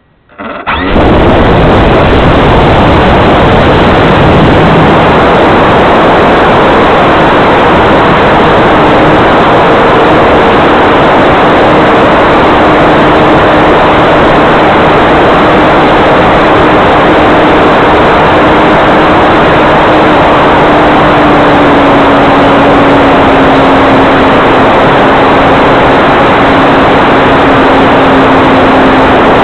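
Electric motor and propeller of an RC scale model plane running loud and steady, starting abruptly about half a second in, with a steady tone that sinks slightly in pitch about twenty seconds in.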